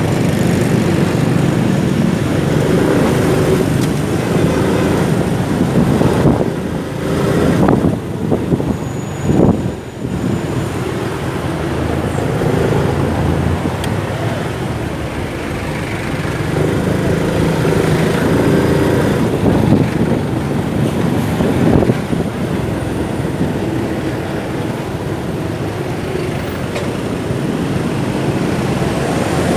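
Motorcycle riding in city traffic: its engine running and rising and falling in pitch with the throttle, over the steady noise of surrounding traffic.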